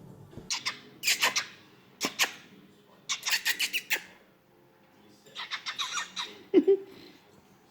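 Pet cockatiel making about five short bursts of rapid, sharp clicks, with a brief squeak about six and a half seconds in.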